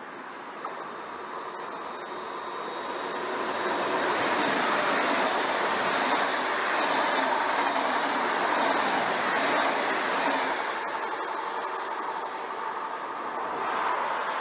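A train passing through: a rushing wheel-and-rail noise that builds over the first few seconds, holds for several seconds, then eases off, with a brief swell near the end.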